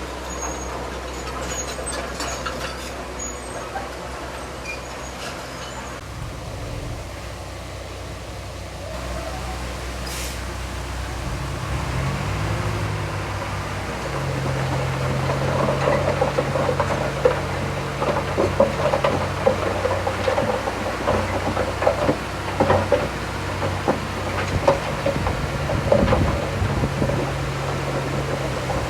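Heavy diesel engine of an earthmoving machine running steadily, then revving up about twelve seconds in and working under load, with repeated metallic clanking and rattling over it for the rest of the time.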